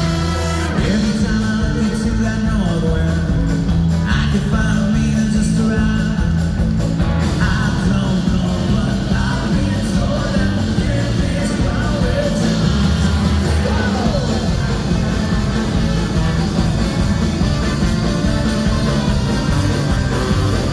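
Ska-punk band playing live and loud, with singing over drums, bass and guitar; the music shifts into a new section a little under a second in.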